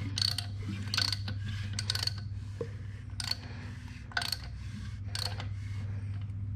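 A socket ratchet clicking in short, irregular strokes as a Mazda 13B rotary engine is turned over by hand at the eccentric shaft. The engine is being rotated so the apex seals can be inspected through the spark plug holes.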